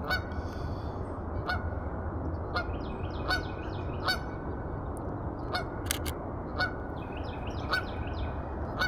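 Geese honking, short calls about once a second, over steady low wind rumble on the microphone.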